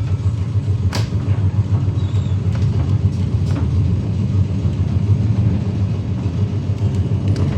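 Heritage electric tram rumbling steadily and low, heard from on board, with a few sharp clicks.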